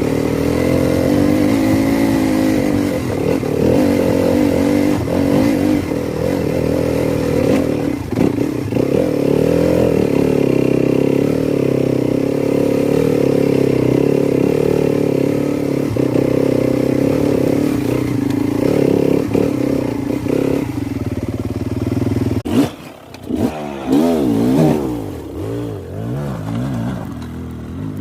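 Dirt bike engine running under constantly changing throttle as it is ridden, its pitch rising and falling. Late on the sound dips sharply, then comes a run of quick revs up and down, and after that it runs quieter.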